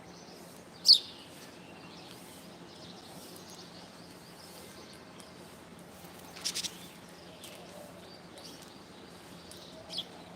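Bird calls: a short, loud, falling call about a second in, a harsh burst of three quick calls past the middle, and another short falling call near the end, over faint chirping in the background.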